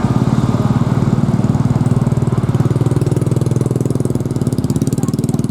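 A small engine idling close by, running steadily with a rapid, even pulse.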